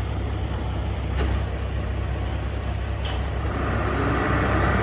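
Heavy diesel machinery engine running steadily, with two short metallic clanks about a second and three seconds in. Near the end a higher-pitched whine builds up over the rumble.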